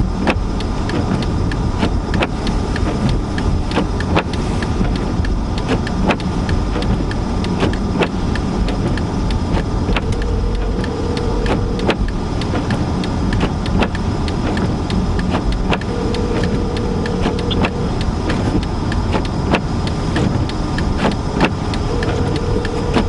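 Car interior while driving through heavy snow: a steady low rumble of engine, tyres and wind, with irregular sharp clicks and ticks. A short steady tone sounds three times, about six seconds apart.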